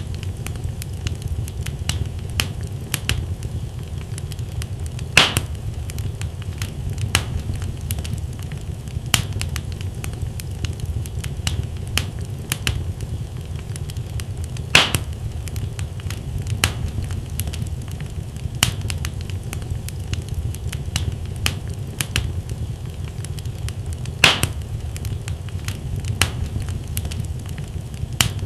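Wood fire burning in a fireplace: a steady low rumble of flames with frequent sharp crackles from the logs, and a few louder pops, about every ten seconds.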